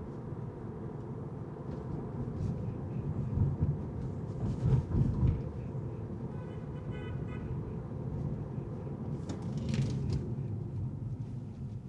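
Car driving on city streets: steady low road and engine rumble. About six and a half seconds in, a short run of high toots lasts about a second.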